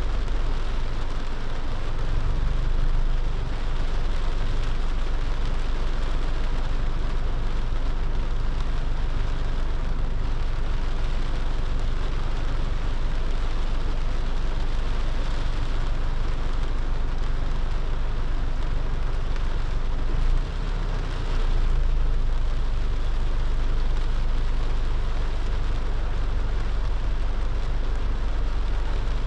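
A car driving in heavy rain: steady hiss of rain and tyres on the wet road over a low rumble, briefly dipping about twenty seconds in.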